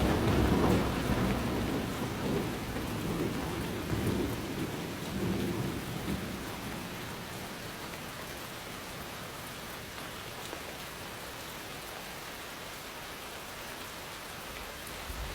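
Steady rain falling, with a thunder rumble that is loud at the start and fades away over the first six seconds, leaving only the hiss of the rain.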